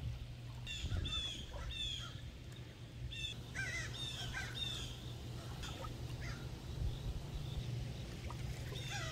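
A group of black birds calling: short, high, downward-slurred calls in quick clusters, with a warbling call near the middle.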